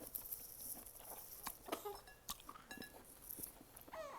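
Newborn baby feeding: faint sucking and wet mouth clicks, then a short high squeak near the end.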